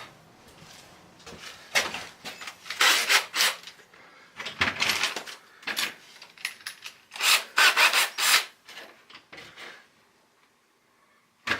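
Hand scraping and rubbing in several short bursts of strokes, with a pause between bursts, then quiet near the end.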